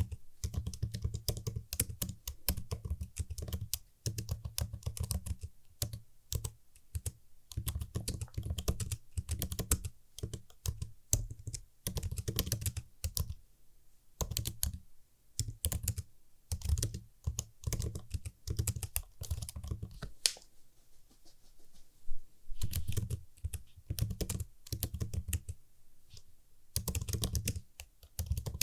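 Typing on a computer keyboard: fast runs of crisp key clicks, broken by two short pauses, with one louder key strike about three quarters of the way in.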